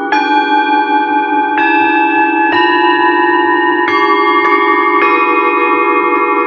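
Metal singing bowls struck one after another, about six strikes, each ringing on with several steady overtones and layering over a sustained, beating low hum.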